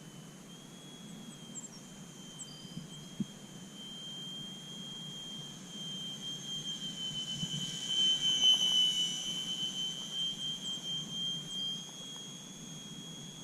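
Electric RC airplane's brushless outrunner motor (Turnigy 2730, 1300 kv) turning a small GWS propeller in flight: a high, steady whine. It grows louder from about six seconds in, peaks around the middle and fades again as the plane comes near and moves away.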